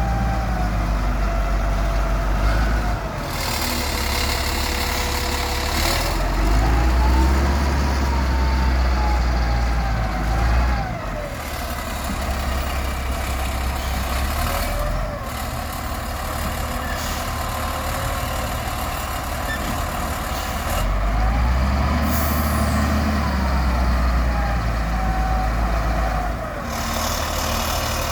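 Heavy diesel engines running and revving up and down while sand is loaded into a dump truck. Bursts of hiss come a few seconds in and again near the end.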